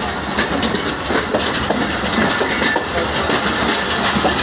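Passenger train running on the track: a steady rumble with irregular clattering of wheels over the rails.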